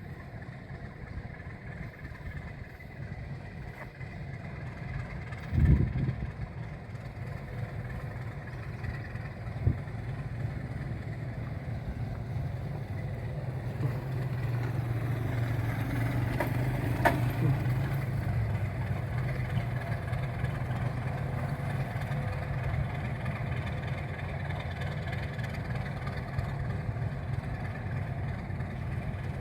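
Alco RS8 diesel locomotive engine running steadily while shunting. There is a loud thump about six seconds in and a smaller knock a few seconds later. The engine grows louder under load for several seconds past the middle, then settles.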